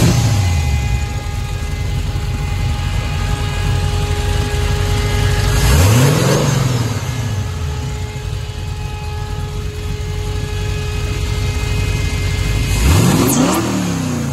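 A 350 cubic-inch V8 with a MotherThumper cam and Holley Sniper fuel injection, idling and blipped by hand: it falls back from a rev as it opens, is revved up and back down once about six seconds in, and again near the end, idling steadily in between.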